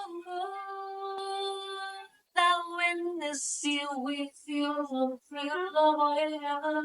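A woman singing a slow melody of long held notes.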